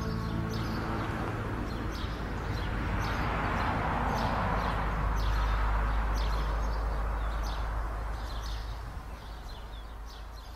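Birds chirping in many short, quick calls over a steady rushing noise that swells and then fades out. The last held notes of music die away in the first moment.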